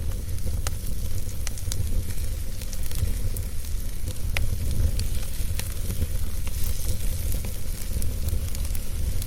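Wood fire burning in a fireplace: sporadic sharp crackles and pops over a steady low rumble and hiss.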